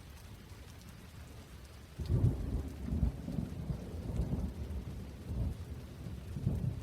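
Steady rain with a low, rolling rumble of thunder that breaks in suddenly about two seconds in and keeps rumbling unevenly.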